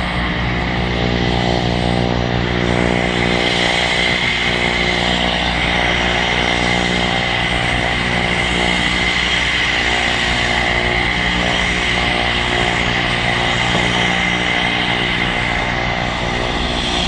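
Turbine aircraft engine running steadily on the ground: a constant whine over a low, even hum.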